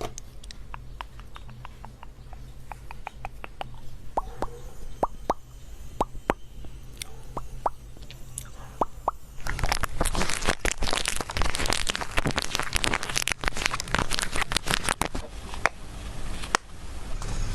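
Close-miked ASMR trigger sounds: sparse small taps and pops at first, then about nine seconds in a dense, continuous crackling and crunching.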